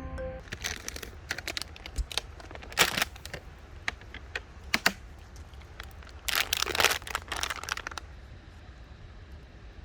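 Irregular clicks and short crinkling rustles of objects being handled, over a steady low rumble; the handling stops about eight seconds in.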